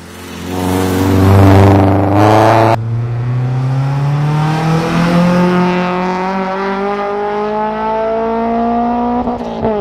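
Modified Honda Civic's 1.5-litre D15 VTEC four-cylinder revving hard under acceleration. It climbs loudly in pitch for the first two seconds and cuts off suddenly. Then comes one long, steady rise in pitch over about six seconds, which drops sharply near the end as the next gear goes in.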